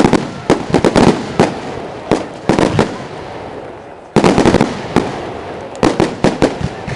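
Aerial firework shells bursting in rapid volleys of sharp bangs, each trailing off in a rolling echo, with a dense cluster of bursts a little past halfway.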